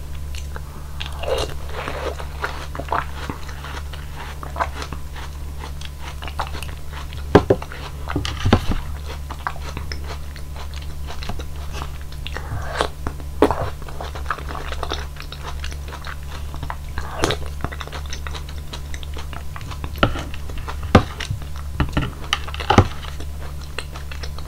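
Close-miked biting and chewing of fruit pieces from a bowl of hwachae, Korean fruit punch, including watermelon, dragon fruit and yellow peach. It comes as an irregular series of sharp bites, crunches and mouth sounds over a steady low hum.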